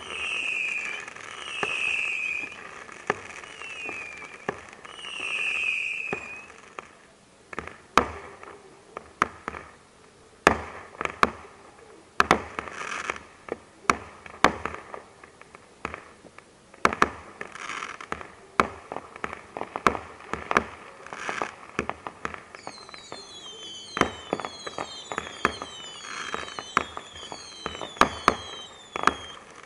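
Fireworks going off: several whistling rockets in the first few seconds, then a long run of sharp bangs and firecracker cracks, and near the end a quick series of falling whistles among the bangs. Heard through the camera's waterproof housing.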